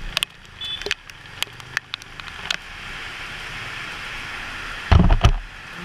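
Riding in rain: raindrops tick sharply against the microphone in the first couple of seconds, then a steady hiss of rain and road noise. A heavy low thump and rumble comes about five seconds in.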